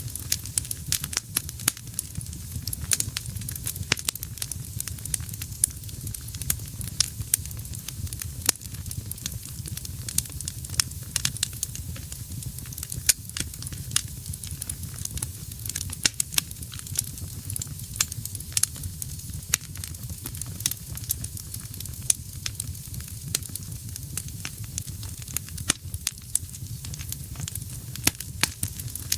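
Wood fire burning in a fireplace, with dense, irregular sharp crackles and pops over a steady low rumble of the flames.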